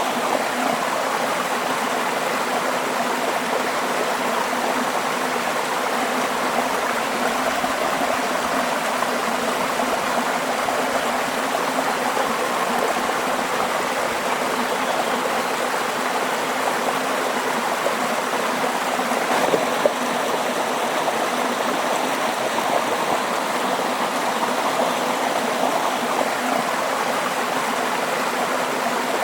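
Running water flowing steadily, a continuous even rush with one small click about two-thirds of the way through.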